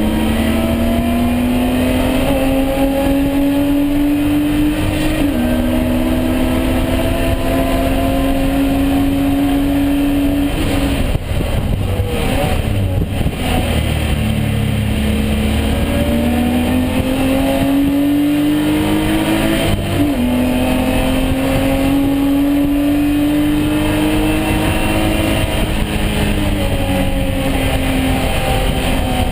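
BMW E36 race car's engine under hard acceleration on track. The pitch climbs through the revs, with upshifts about five and twenty seconds in, and there is a lift for braking and downshifts around eleven to fourteen seconds in.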